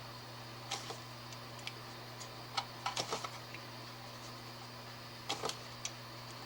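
Small tool clicks and scrapes while the outer insulation of a power cord is being cut and peeled back to expose the wires inside: a few scattered taps, with a cluster about three seconds in and another near the end.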